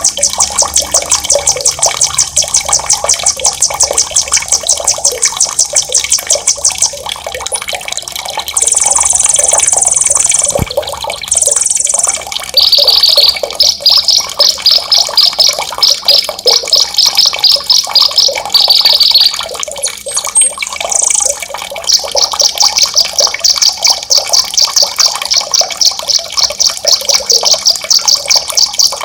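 Songbird singing long, fast, high-pitched rolling trills (ngerol), one trill after another with short breaks, over a steady sound of running water.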